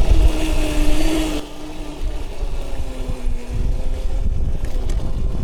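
Electric dirt bike's motor whining steadily under heavy wind and tyre rumble on the microphone; the whine dips a little in pitch and loudness after about a second and a half as the bike slows.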